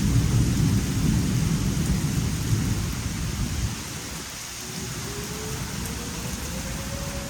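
Thunder rumbling over steady rain, the rumble dying away about halfway through. In the second half an outdoor tornado warning siren starts winding up, a faint tone rising slowly in pitch.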